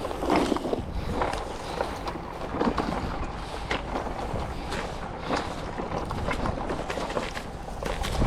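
Footsteps pushing through thick grass: irregular rustling and crackling of stems, with wind rumbling on the microphone.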